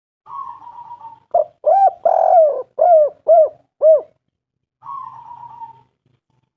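Spotted dove singing. A soft, slightly descending rolling coo is followed by a run of about six loud, arching coos, one of them longer than the rest. Another soft rolling coo closes the phrase.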